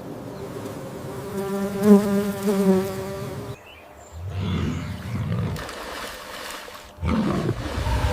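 A steady insect buzz, like a bee or fly, for about three and a half seconds. It cuts off suddenly and is followed by a series of low, rough animal calls in short spurts.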